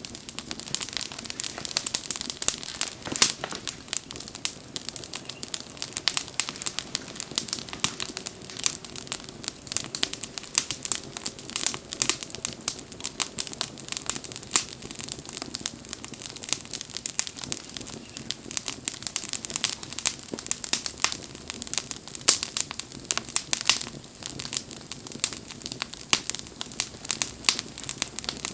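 Wood campfire crackling steadily, with dense, irregular pops and snaps.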